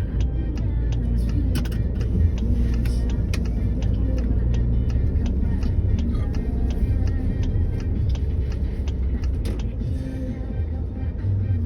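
Car on the road, with a steady low rumble from the engine and tyres, and music with a regular beat playing over it.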